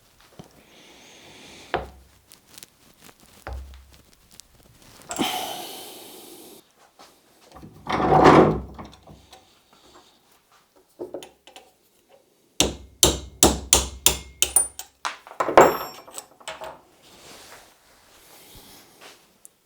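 Hand work on an LGB V 200 model locomotive's drive train as its broken gears are replaced: scattered knocks, clicks and rubbing of tools and small parts, with a quick run of sharp clicks about two-thirds of the way through.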